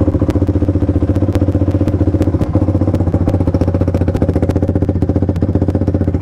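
2006 Honda TRX450ER quad's carbureted single-cylinder four-stroke engine idling steadily, warming up just after a cold start.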